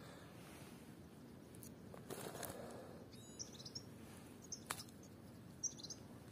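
Faint, high-pitched chirps of small birds: a few short calls scattered through, one a quick run of rapid notes about three seconds in. A soft rustle comes about two seconds in.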